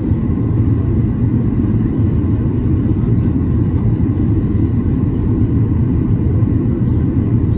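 Cabin noise of a Boeing 737-800 on approach with flaps extended: a steady, even rumble from its CFM56 engines and the airflow, with faint steady tones above it.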